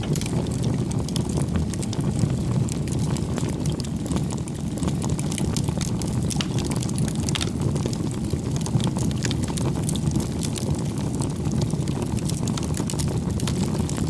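Campfire burning: a steady low rumble of flames with frequent sharp crackles and pops from the burning wood.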